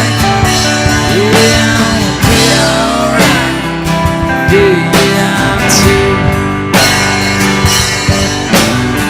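Live band playing an instrumental break: a guitar line with bent notes over a steady drum beat and sustained backing.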